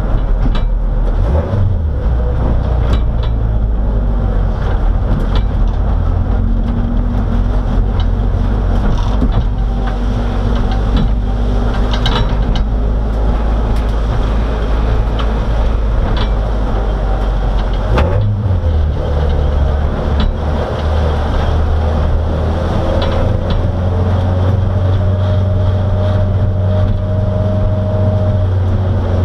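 A race car's engine heard from inside the cabin, running at low revs as the car rolls slowly, with a steady low drone. The engine note changes about a second and a half in and again about eighteen seconds in.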